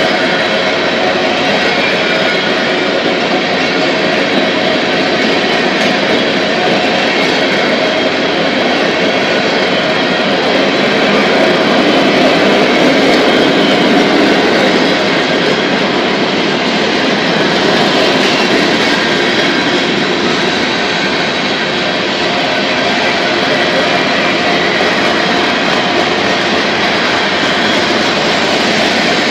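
Freight cars of a passing mixed freight train rolling by: a loud, steady rush of steel wheels running on the rails.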